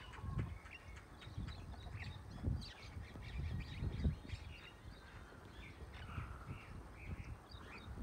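Birds chirping and calling, many short high notes scattered throughout, with a few quick repeated calls near the end. A low, irregular rumble runs underneath.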